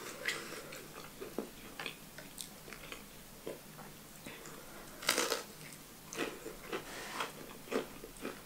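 A person chewing French fries close to the microphone: quiet, scattered wet mouth clicks and smacks, with one louder, sharper noise about five seconds in.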